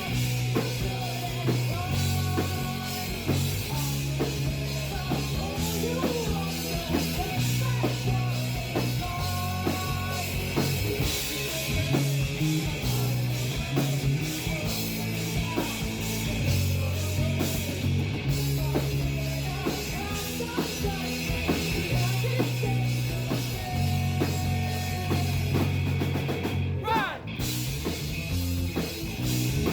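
Live rock music recorded from the audience: heavy bass and drums, with a female lead vocal faint and hard to make out in the mix.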